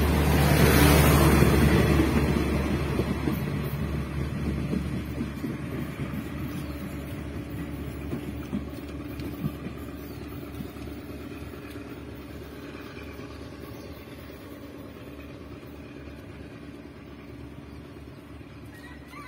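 Diesel-hauled State Railway of Thailand passenger train passing close, its wheels rumbling on the rails, then moving away down the line. The sound fades steadily as it recedes.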